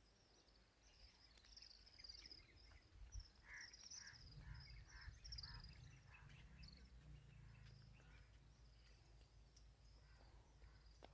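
Faint birds chirping, many short repeated calls, with a low rumble from about four seconds in.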